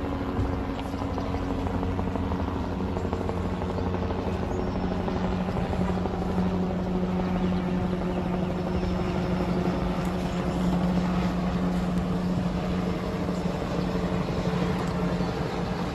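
Steady engine drone with a constant low hum, holding even throughout.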